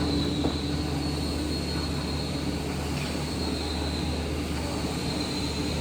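A machine running with a steady drone: a constant low hum with a higher whine, unchanging throughout.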